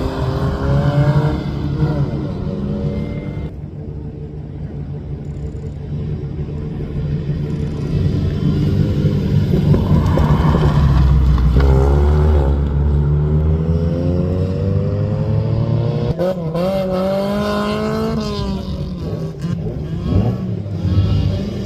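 Rally car engine driven hard, its pitch climbing under acceleration and dropping sharply at each gear change, several times over.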